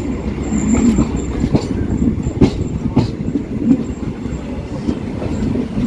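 Coaches of the Poorna Express express train running along the track: a steady low rumble of wheels on rail, broken by a few sharp clacks at irregular intervals as the wheels pass over rail joints.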